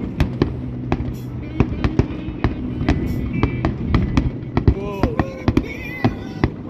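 Fireworks going off in quick succession, sharp bangs and cracks several times a second, over background music and voices.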